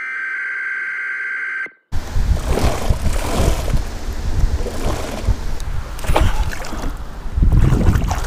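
A steady high tone lasts under two seconds and cuts off suddenly. After it, wind buffets the microphone on a small fishing boat, with water splashing and lapping.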